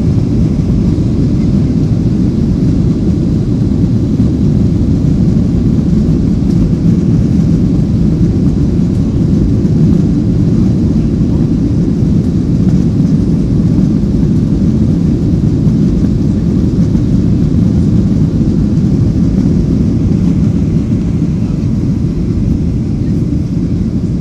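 Steady, loud, low vehicle engine drone that holds unchanged throughout.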